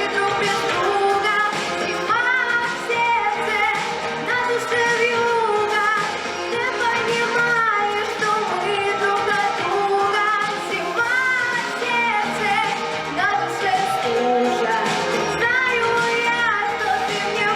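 Solo singer performing a pop song over instrumental accompaniment, the melody line gliding and held on long notes.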